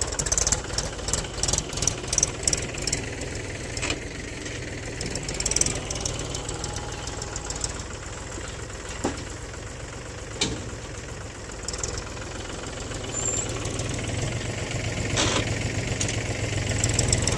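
Mahindra tractor's diesel engine running steadily, with sharp knocks scattered through the first few seconds and the engine growing louder over the last few seconds.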